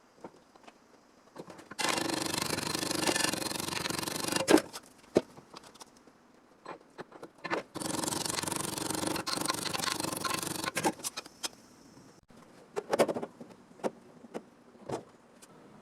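Two steady bursts of scraping, hissing noise, about three seconds each, with scattered clicks and knocks between them and a sharp knock at the end of the first burst.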